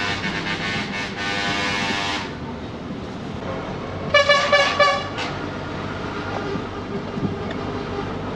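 Lorry air horns sounding: a long held blast that stops about two seconds in, then three quick toots about four seconds in, over steady truck engine and road noise.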